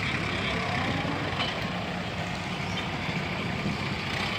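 A heavy engine idling steadily, a low even rumble.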